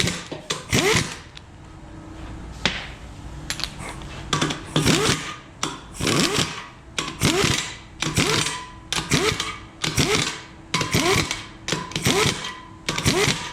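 Ratchet wrench worked back and forth in short strokes, clicking under twice a second, snugging down the bolts of an engine block's main bearing cap. A few separate knocks of the tool come first.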